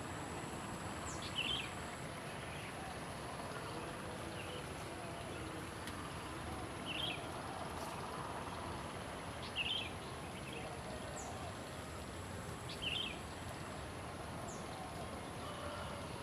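Songbird calling: short chirps repeated every two to three seconds over a steady background hiss, with a thin, high, held whistle twice.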